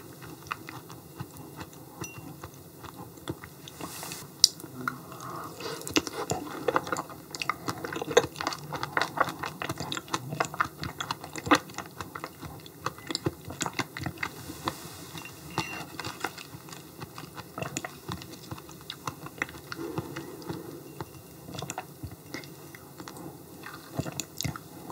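Close-up mouth sounds of a person chewing yellow stingray liver, with many irregular smacks and clicks.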